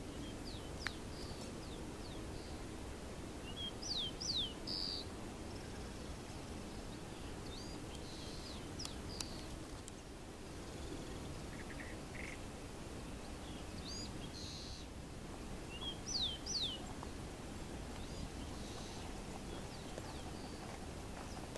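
Outdoor ambience with a steady low background hiss and a bird calling: a short phrase of quick, high, downward-slurred notes about four seconds in, repeated about twelve seconds later, with a few faint chirps between.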